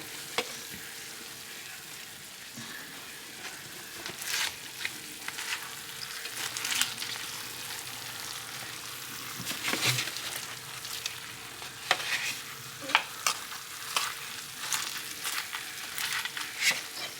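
A spoon scraping and scooping in a dish of baked mac and cheese, with irregular short scrapes and clinks.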